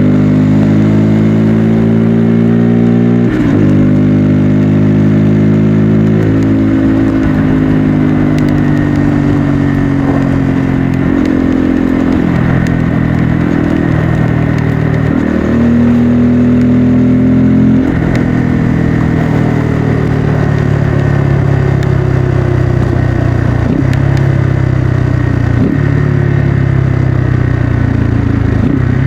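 Bajaj Pulsar N250 motorcycle's single-cylinder engine and exhaust under way, pitch climbing through the gears with several upshifts, each a sudden drop in pitch. Over the last part the pitch falls slowly as the engine winds down.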